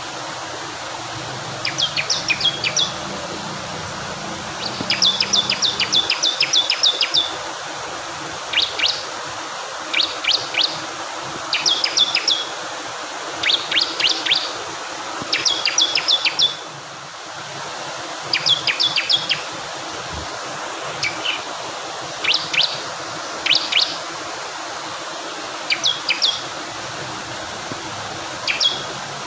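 Bar-winged prinia (ciblek kristal) singing: short bursts of rapid, sharp high notes, repeated every second or two, over the steady sound of rushing water.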